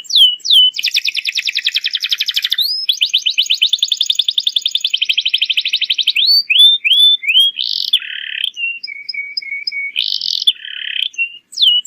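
Domestic canary singing a continuous song. It opens with rising chirps, then two long, very rapid trills, more rising chirps, and a run of varied lower notes with short whistles.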